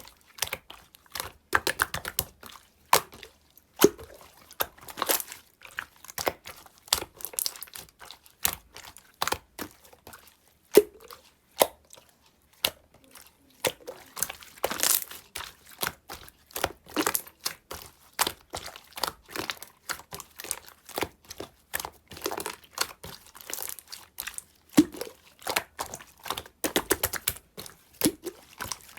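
Clear slime being squeezed and poked by hand, giving a stream of irregular sharp clicks and pops.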